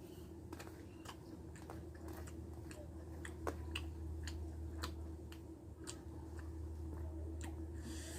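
Close-miked eating: a person chewing rice and dried fish, with frequent irregular wet mouth clicks and smacks over a steady low hum.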